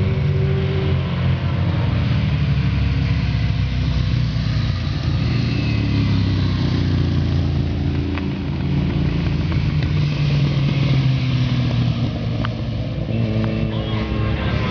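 Superbike engine running hard without a break, its pitch rising and falling as it revs.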